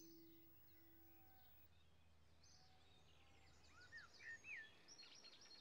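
Faint birdsong: short chirps and quick trills starting about halfway through, over near silence. A held low note fades out in the first second or so.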